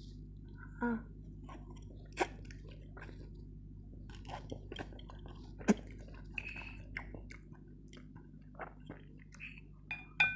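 Close-up mouth sounds of someone eating black bean sauce noodles: chewing and slurping, with small wet clicks. Near the end, chopsticks clink against the bowl with a short ring.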